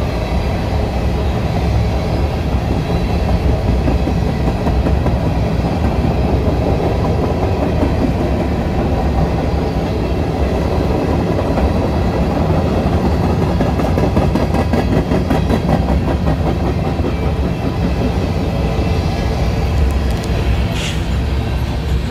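Freight cars of a Norfolk Southern train rolling past at close range as it picks up speed: a loud, steady rumble with the clickety-clack of wheels over rail joints, denser in the middle. A brief high squeal near the end.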